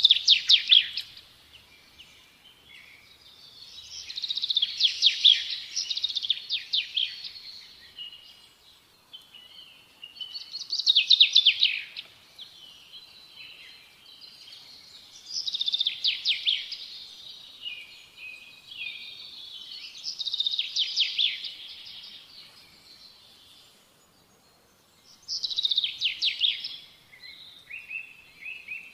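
A songbird singing short, rapid trilled phrases, repeated about every five seconds.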